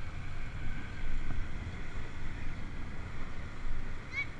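Wind buffeting the microphone of a camera moving along on a bike ride: a steady, noisy rumble, with a short high chirp near the end.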